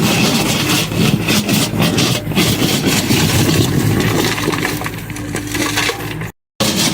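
John Deere excavator breaking up a house's wooden structure: continuous cracking, splintering and crushing of timber over the diesel engine's steady running. The sound drops out completely for a moment near the end.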